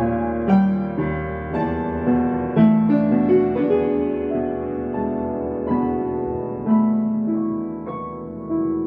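Solo piano playing a slow, gentle melody, single notes struck about once or twice a second and left ringing over lower held notes.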